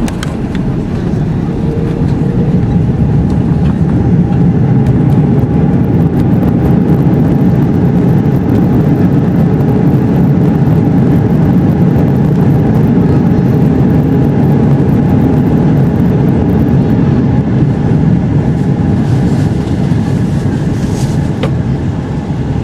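Airbus A330-300 heard from inside the cabin during the landing rollout: the engines' reverse thrust and the rolling wheels make a loud, deep rumble that builds a few seconds in, holds, and eases off near the end as the jet slows.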